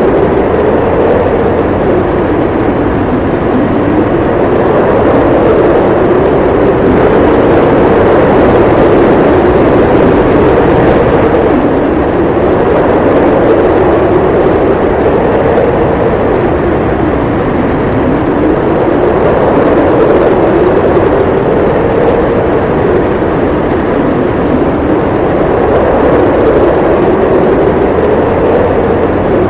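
Howling wind in a snowstorm, a steady loud rush whose howl slowly rises and falls in pitch every several seconds.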